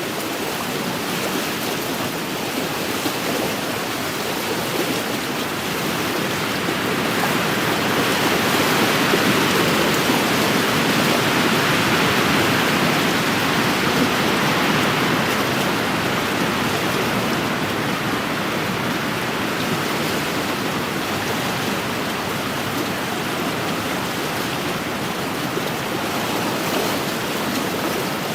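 Wind-driven waves washing against a lakeshore, with wind blowing through: a steady rushing noise that swells through the middle and eases off again.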